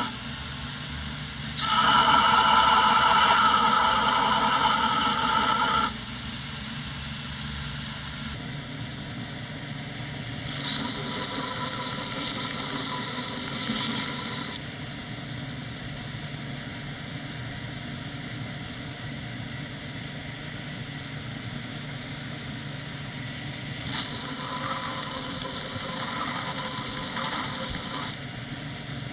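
Belt grinder motor running steadily, with three loud grinding passes of about four seconds each as the work is pressed against the belt.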